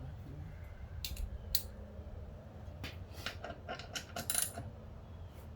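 Scattered light metallic clinks and clicks of hand tools and seat hardware being handled on a car seat's metal frame, busiest about three to four seconds in.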